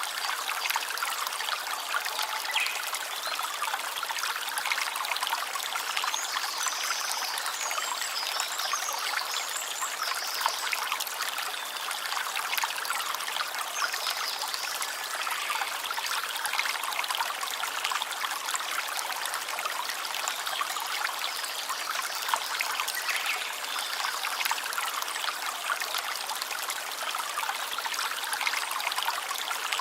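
A small stream trickling and splashing steadily over stones, a bright, even water sound with little low rumble.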